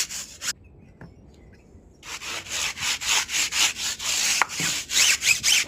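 Hand scrubbing during a car wash: a brush or cloth rubbed back and forth over the car in quick, rhythmic strokes. There is a short quieter break about half a second in before the strokes resume.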